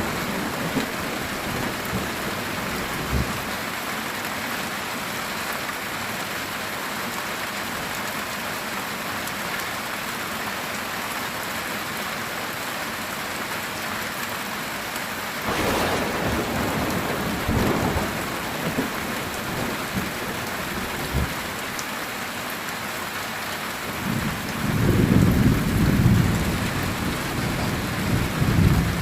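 Heavy rain falling steadily on a metal tin roof. A sharp thunder crack comes about halfway through, followed by low rumbles, and a longer, louder rumble of thunder near the end.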